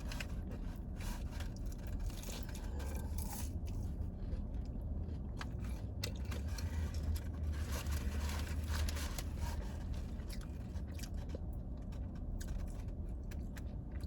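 Close-up chewing and biting on fast food, with scattered small crunches, scrapes and crackles from the food and its wrapping, over a steady low hum.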